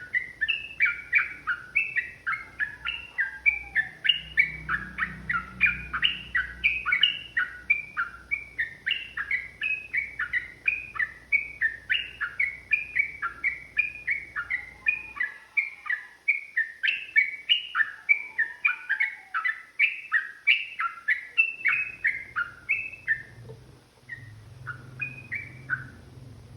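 Sooty-headed bulbul (trucukan) singing a long, fast run of short chattering notes, about three or four a second, that breaks off near the end into a few scattered notes.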